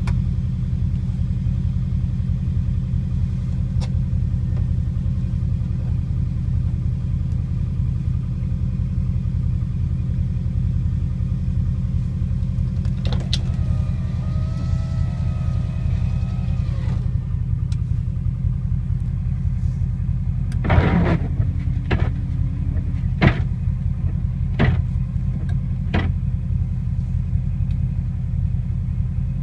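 Subaru Impreza flat-four boxer engine idling steadily after a cold start, with a steady low rumble. A short wavering pitched sound comes about halfway through, and a few sharp clicks follow a little later.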